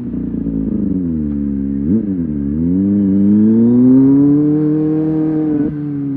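Kawasaki ZX25R SE's 250 cc inline-four engine under way: revs falling, a quick blip about two seconds in, then the revs climb steadily until an upshift drops them near the end.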